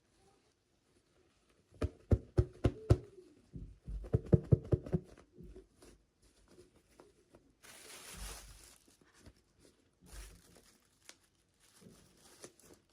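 Toy packaging being handled and torn open by hand: a quick run of sharp clicks and knocks about two seconds in, then two short bursts of tearing or crinkling later on.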